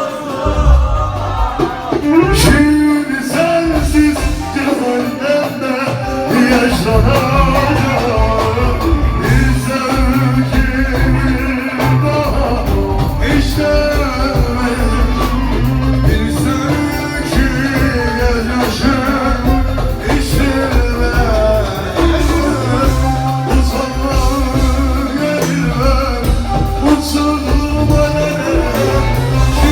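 Live rock band music with a voice singing over it, loud and continuous.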